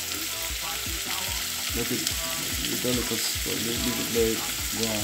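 Chopped onion, garlic and scotch bonnet pepper sizzling steadily in hot oil in a pot while being stirred, with irregular knocks from the stirring.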